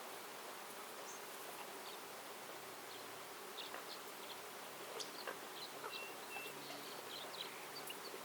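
A flying insect buzzing low over a steady background hiss, with scattered short bird chirps and two brief whistled notes a little after six seconds in.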